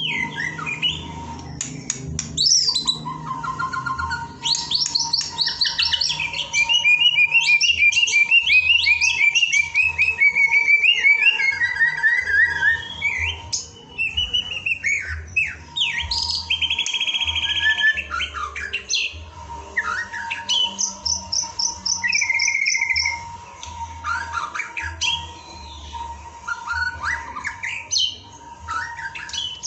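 White-rumped shama singing a long, varied song of clear whistles, fast trills and rapid runs of repeated notes, phrase after phrase with short gaps, over a faint steady tone.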